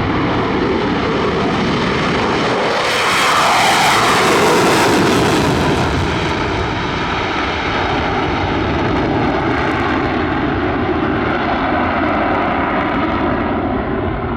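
The twin General Electric F414 turbofans of a Boeing F/A-18 Super Hornet taking off and departing: a loud, continuous jet roar. It swells about three seconds in as the jet passes, with a falling pitch, then carries on a little quieter.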